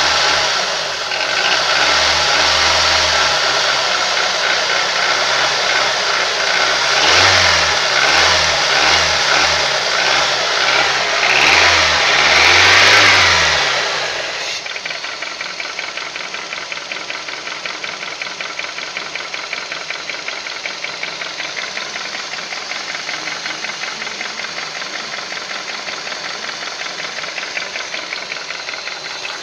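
Honda K20A engine revved in a series of short throttle blips, then settling to a steady run with an even, rapid knock through the second half. The owner says the knock is hardly heard at cold-start warm-up revs, then begins, and stays the same with the drive belt removed, so the belt-driven accessories are ruled out.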